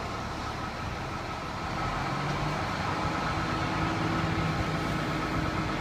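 A vehicle engine idling steadily, with a steady whine over it, growing a little louder about two seconds in.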